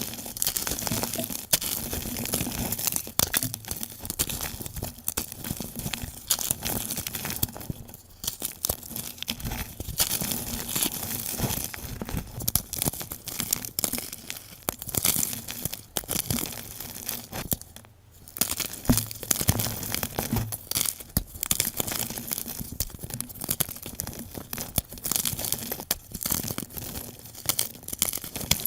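Blocks of gym chalk being crushed, a dense run of crisp crunching and crackling, sped up, with two brief lulls.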